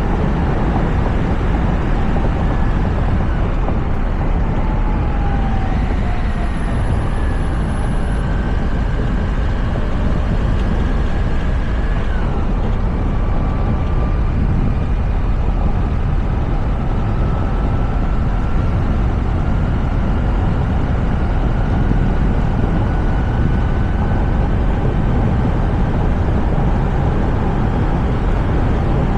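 Steady road and wind noise from a Toyota RAV4 driving, picked up by a camera on its roof. Through it runs a faint whine that slides up and down in pitch as the speed changes.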